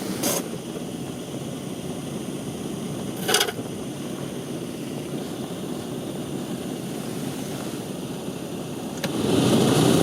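Renault Twingo 1 cabin blower motor running with several of its fan blades broken off, a steady whir; about nine seconds in it steps up to a louder, higher speed. The missing blades leave the fan unbalanced. Two brief sharp knocks come near the start and about three seconds in.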